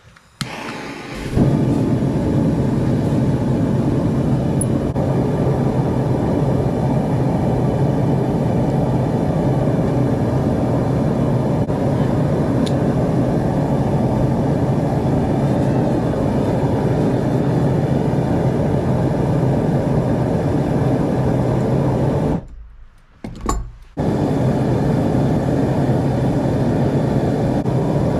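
Electric power sander running steadily as a forged Damascus steel knife blank is sanded to shape, a steady hum and grinding noise. It comes up to full speed about a second in, drops out briefly near the end and starts again.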